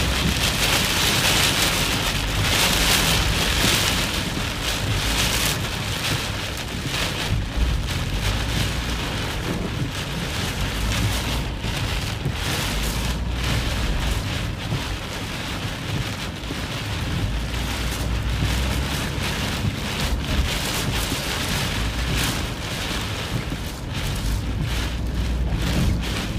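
Heavy rain pelting the windshield and roof of a moving car, heard from inside the cabin as a dense, steady hiss over a low rumble.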